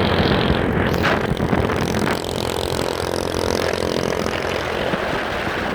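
A vehicle engine running steadily under a constant wash of noise.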